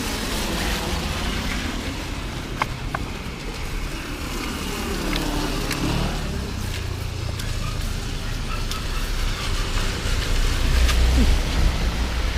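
Street traffic through steady rain hiss. A motor vehicle passes with a falling-then-rising pitch about halfway through, and a low engine rumble grows loudest near the end.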